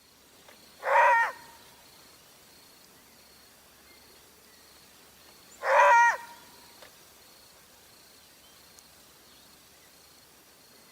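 An animal call: a short, tonal cry, heard twice about five seconds apart, over a faint steady background hiss.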